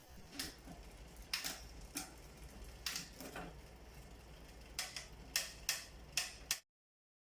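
A series of light, sharp clicks at uneven intervals from a mountain bike's drivetrain being worked on, quickening into a run of clicks near the end, then the sound cuts off suddenly.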